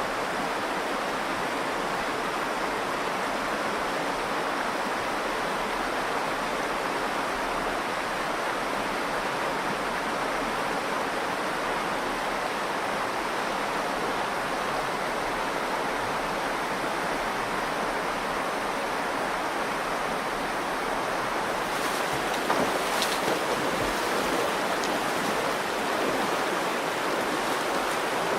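Steady rushing of the Virgin River's flowing water, with a few short, sharp sounds about three-quarters of the way through.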